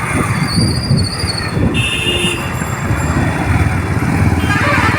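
Motorcycle riding on a road: a steady, loud engine and wind rumble on the microphone, with a brief high tone about two seconds in.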